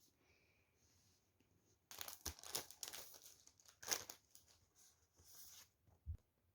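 Several bursts of crinkling and tearing, the loudest in the middle, followed by a soft low thump near the end.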